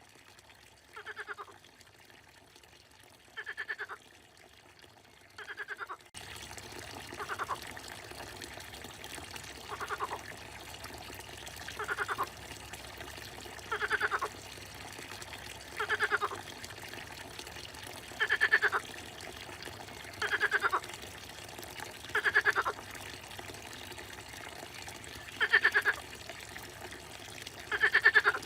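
A frog calling over and over, a short pulsed croak roughly every two seconds. A steady trickle of water joins underneath about six seconds in.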